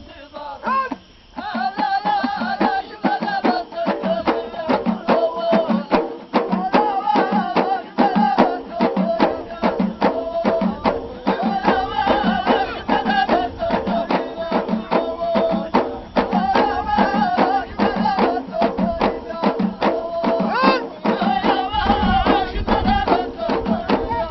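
Ahidous folk music: a group of voices singing a chanted melody over a steady beat of frame drums (bendir). The playing drops off briefly about a second in, then picks up again.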